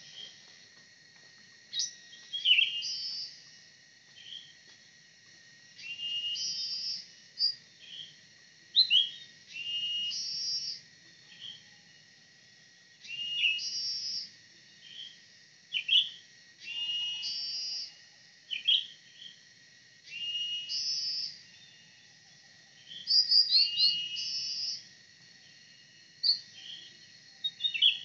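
Cucak ranting (a bulbul) singing short whistled phrases, one about every three to four seconds, the lively song of a trapper's decoy. A steady high insect drone runs underneath.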